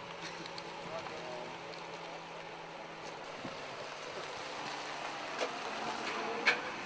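Outdoor street noise with a car engine running as a police car pulls away partway through; a sharp click near the end.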